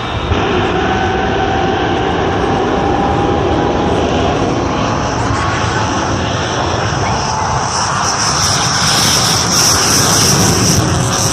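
The Shockwave jet truck's three jet engines running with a loud, steady roar, a high whine growing stronger about eight seconds in.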